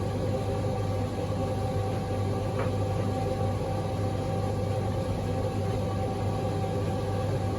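Servis M2110 tumble dryer running, its motor giving a steady, even hum.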